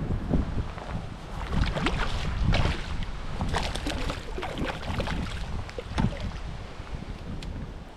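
Wind buffeting the microphone in a low rumble, with water slapping and splashing against a kayak hull in quick irregular crackles, busiest in the first half.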